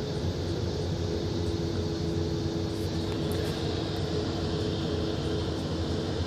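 Jet airliner engines running steadily, an even rush with a steady low hum and no change in level.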